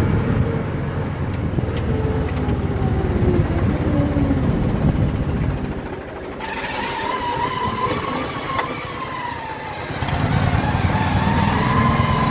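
ATV engine running while being ridden, its pitch rising and falling. A higher, wavering whine joins about six seconds in, and the low engine sound grows strong again near ten seconds.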